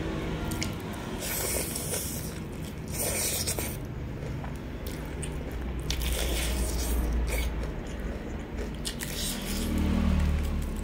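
Close-up bites and chewing of crispy battered fried chicken, with several short loud crunches between wetter chewing.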